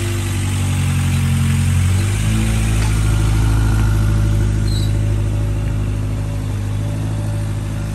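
Honda B18C1 1.8-litre DOHC VTEC four-cylinder of a 2000 Acura Integra GSR running steadily as the car rolls slowly across a lot; its note changes about two seconds in.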